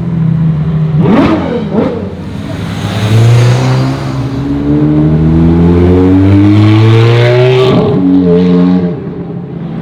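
Supercar engine blipped twice in quick revs, then accelerating hard with a long rising note that drops sharply near the end as it shifts up a gear.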